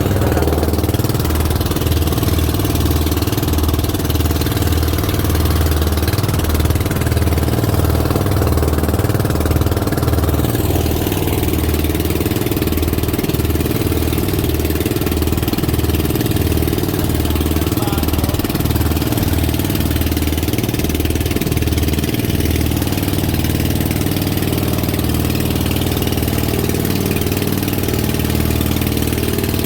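Boat engine running steadily at constant speed, with an even low pulsing throb.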